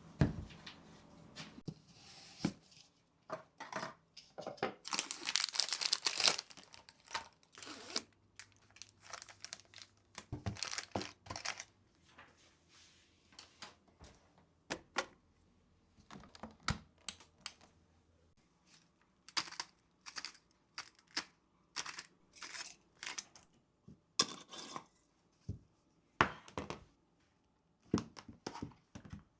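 Food packaging being handled: plastic wrapping crinkling and tearing, loudest about five seconds in, with scattered clicks and knocks of containers being set down.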